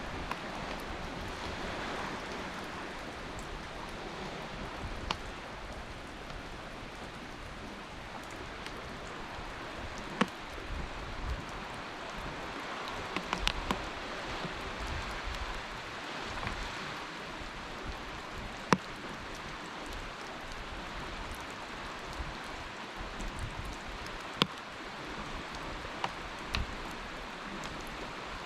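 Steady soft hiss of water with scattered sharp ticks every few seconds.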